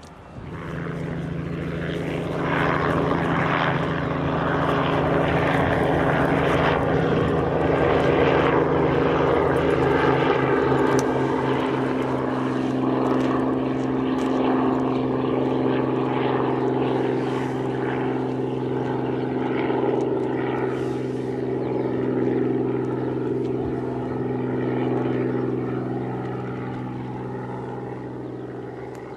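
Light propeller aircraft's piston engine running steadily at high power, getting louder over the first few seconds and slowly fading toward the end.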